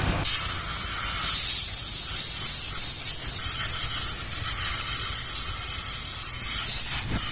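Aerosol cleaner can spraying in one long, steady hiss, with a brief break about seven seconds in before it sprays again.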